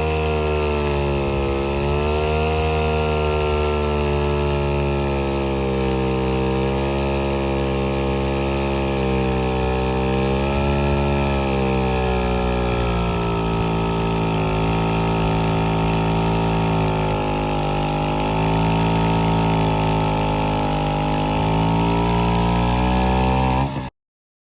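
Vintage two-stroke chainsaw engine running steadily at low speed, its pitch wavering slightly; it cuts off suddenly near the end.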